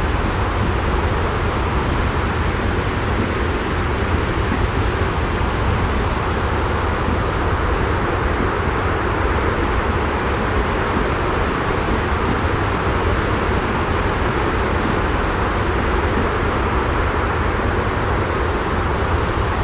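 Steady, unbroken white-noise ambience: a heavy low rumble under an even hiss, with no separate sounds standing out.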